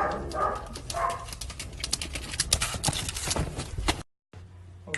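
An animal gives a few short calls, then a rapid, irregular clatter of clicks and knocks follows until the sound cuts off abruptly about four seconds in.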